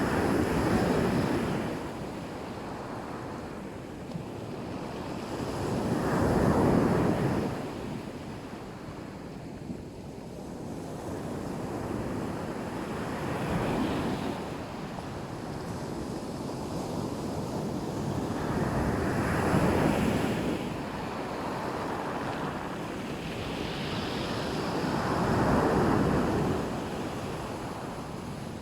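Black Sea waves breaking and washing up a beach, the surf swelling and falling back about every six seconds, five times in all.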